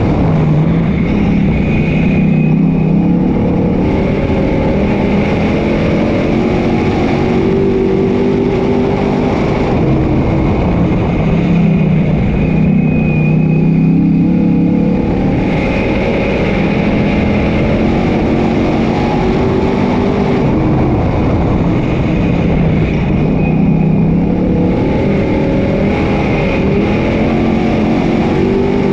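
Dirt-track modified race cars running laps in a heat race, engines repeatedly rising in pitch on acceleration and falling off as they lift for the turns.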